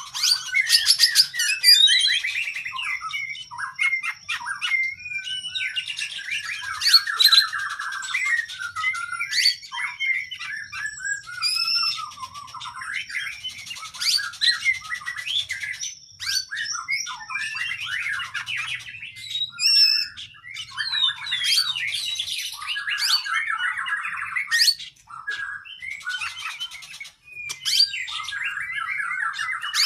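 Oriental magpie-robin (kacer) singing a long, continuous, varied song of fast whistles, trills and chattering phrases, with brief pauses. The song is packed with mimicked phrases of other birds.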